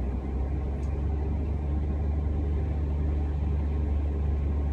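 Single-engine Cessna's propeller and piston engine running at full power on the takeoff roll: a steady low drone.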